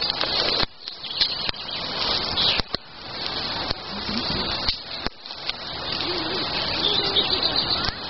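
Campfire crackling, with birds calling.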